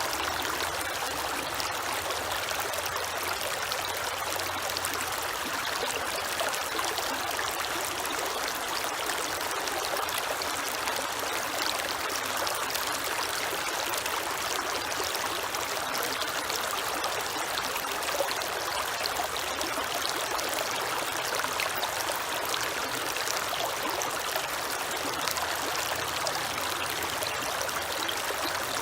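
Creek water flowing and trickling steadily over stones, with a faint low hum underneath.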